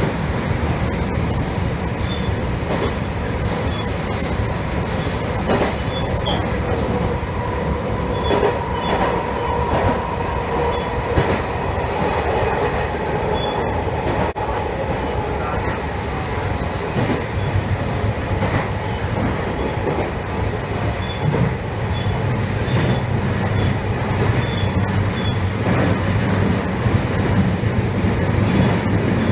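Electric train running along the line, heard from on board: a steady low rumble with scattered clicks of the wheels over the rails. A faint steady higher tone comes in through the middle and then fades.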